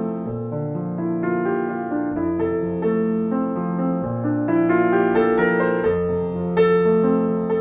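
Slow, gentle instrumental piano music: a melody of held notes over sustained low bass notes.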